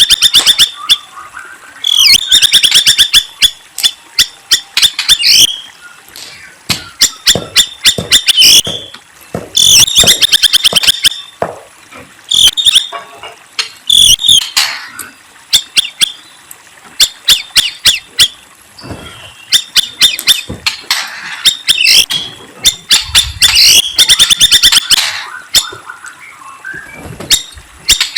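Murai songbird singing: one phrase after another, each a fast run of rapid high chirping notes lasting one to three seconds, with short pauses between.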